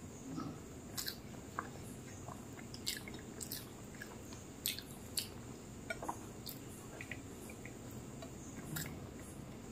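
Close-miked chewing and wet mouth clicks of a person eating rice by hand, with soft squishes of fingers mashing rice on the plate. Short sharp clicks come irregularly, a few every second or two.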